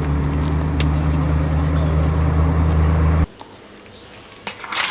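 Steady car-engine sound with a deep hum, which cuts off abruptly about three seconds in. Small clicks and a brief rustle follow near the end.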